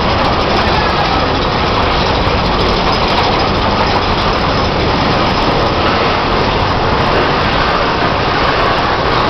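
Mine-train roller coaster running along its track: a loud, steady rumble of the train with the rush of air past it, with no separate clanks or shouts standing out.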